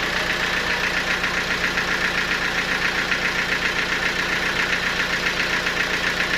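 Sawmill machinery running steadily: an engine-like hum with a fast, even pulsing and no change in load.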